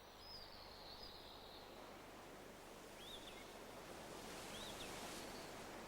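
Faint, steady outdoor noise of wind and sea air, with a few quiet bird chirps: one drawn-out whistle near the start, then short single chirps about three and four and a half seconds in.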